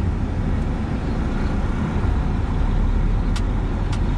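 Grain truck's engine running steadily with road noise, heard from inside the cab while driving, with two light clicks in the second half.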